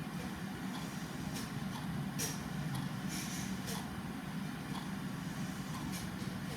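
Steady low background hum of ambience, with a few irregularly spaced sharp ticks and clicks over it.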